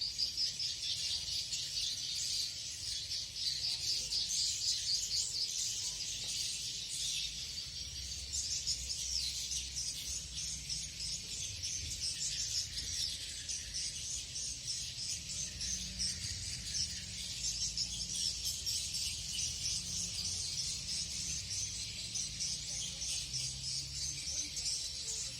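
Swiftlets twittering: a dense, unbroken chorus of fast, high chirps overlapping one another, with a faint low rumble underneath.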